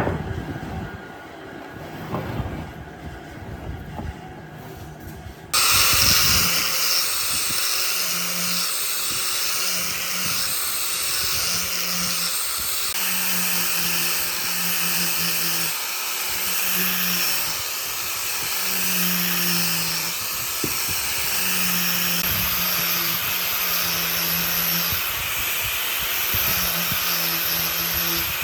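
A handheld power tool working wood. It switches on suddenly about five seconds in, after a few light knocks, and then runs steadily with a hiss, while a low hum comes and goes.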